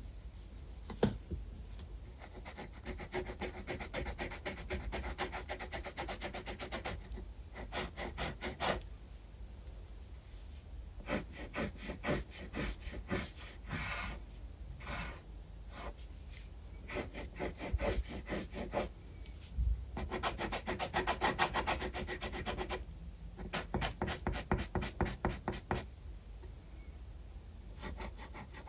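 Graphite pencil scratching across sketchbook paper in quick back-and-forth strokes, in runs broken by short pauses.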